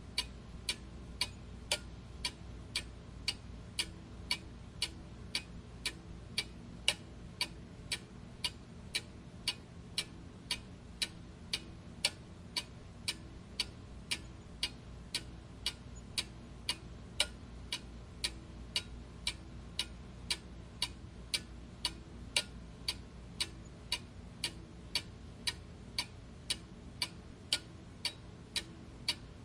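Clock ticking steadily, about two ticks a second, with a faint low hum underneath.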